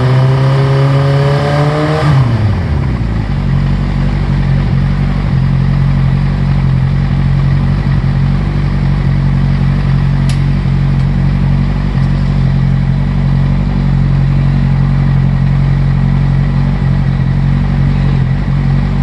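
Yamaha YZF-R1's inline-four engine held at raised revs, then dropping back about two seconds in to a steady idle. One sharp click about halfway through.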